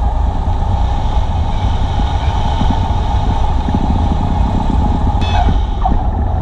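Cessna 172's engine and propeller running with a loud, steady drone. A brief click sounds about five seconds in.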